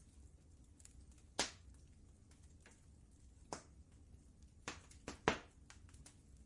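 Wood fire crackling: scattered small ticks and a few sharp pops, the loudest about five seconds in, over a low steady rumble.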